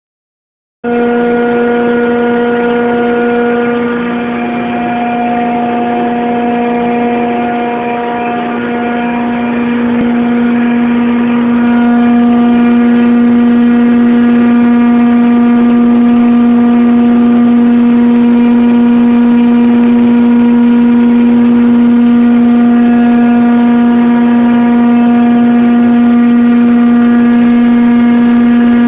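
York screw compressor running with a loud, steady whine. The pitch holds constant throughout.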